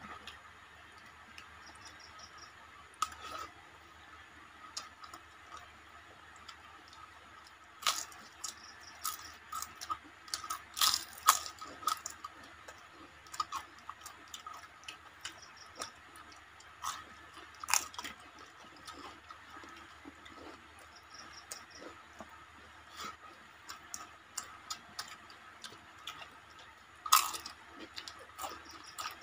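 Close-up eating sounds: chewing and crisp crunching as people eat by hand, with irregular sharp crunches of papad and fried fritters, loudest a few times in the middle and once near the end.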